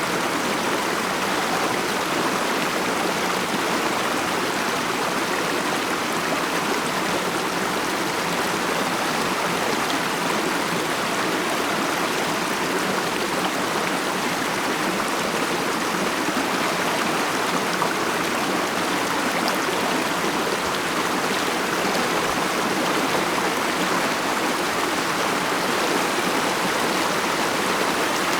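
Mountain stream flowing over rocks: a steady babbling and rushing of water that keeps an even level throughout.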